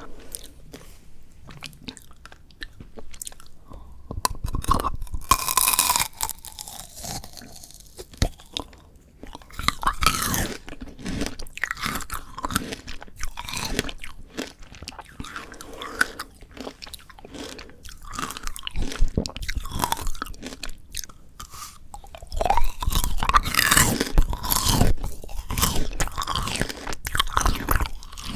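Close-miked biting and chewing of frozen Shine Muscat grape tanghulu: the hard sugar shell cracks and crunches between the teeth, with softer chewing in between. The crunching comes in clusters, the densest in the last six seconds.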